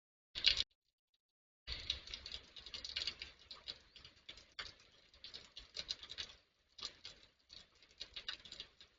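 Storm rain pattering, picked up by a CCTV camera's microphone. A short burst comes about half a second in, then from about two seconds in a steady crackling patter with many sharp spikes, which drops out briefly and then carries on.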